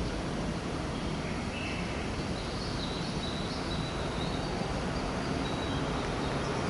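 Steady outdoor background noise, like distant traffic, with a few faint high chirps of birds in the middle.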